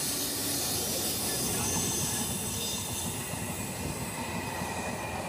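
Two passenger trains passing on adjacent tracks: a steady rushing and rumbling of coaches and their wheels on the rails, heard from aboard one of the moving trains.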